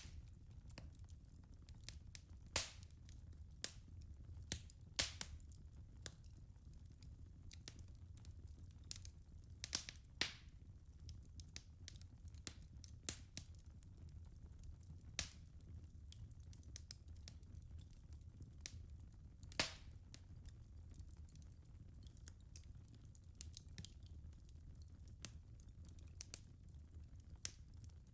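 Wood fire crackling in a fireplace: irregular sharp pops and snaps from the burning logs over a low steady rumble of the flames.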